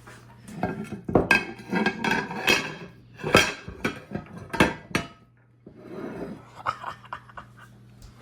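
Cutlery clinking and scraping against dishes as food is spooned onto a plate: a busy run of clinks and knocks for several seconds, a short pause, then a few lighter clinks.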